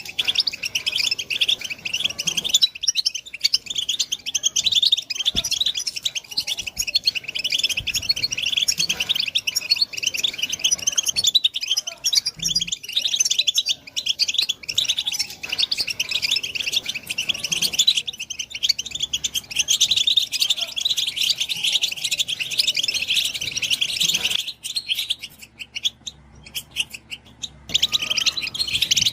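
European goldfinch singing a fast, continuous twittering song, which thins to scattered notes for a few seconds near the end before picking up again.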